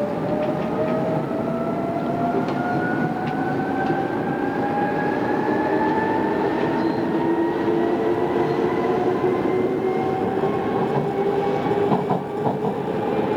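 Odakyu 2600 series electric train running, its traction motor and gear whine rising slowly and steadily in pitch as the train gathers speed, over wheel rumble with a few faint rail-joint clicks.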